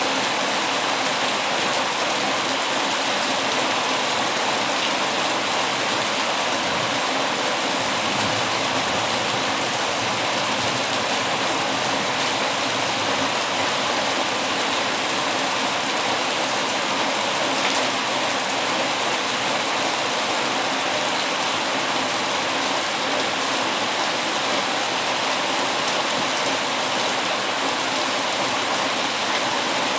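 Steady heavy rain with a fireplace crackling softly underneath in a few faint ticks.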